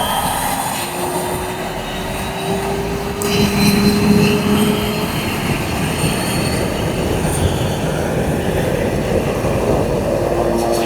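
Turbine engine of a seaplane running at high power: a loud, steady rushing noise with a faint whine that rises slowly in pitch for a few seconds.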